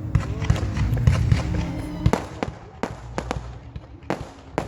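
Fireworks going off: a dense rumble of overlapping bangs for the first two seconds, then separate sharp bangs and crackles.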